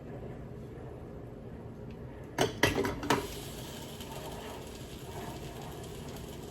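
Dishes clinking and clattering: a short cluster of sharp knocks about two and a half seconds in, over a steady low background hum.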